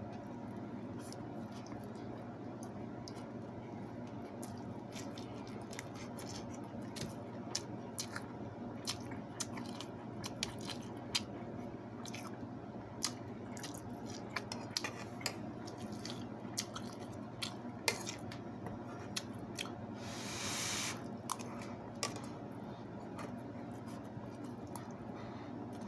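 Close-miked chewing and lip smacks of a person eating rice with fried fish and eggplant by hand, with many short sharp mouth clicks over a steady low hum. A brief hiss comes about twenty seconds in.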